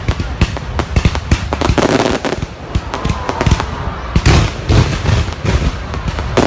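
Fireworks going off in quick succession: a dense run of sharp bangs and crackles, with heavier booms a little past four seconds in.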